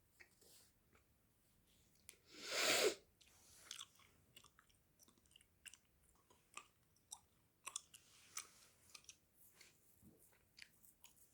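Gum chewing close to the microphone: soft, wet mouth clicks and smacks at an irregular pace, with one louder, longer rush of noise about two seconds in.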